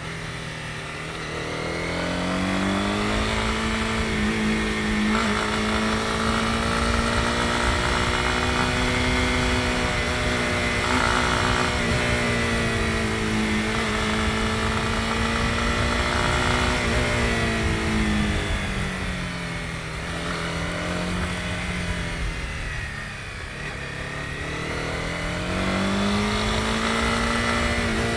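Honda CB250R's single-cylinder engine under way: its pitch climbs about two seconds in and holds steady, drops back around eighteen seconds in, then climbs again near the end.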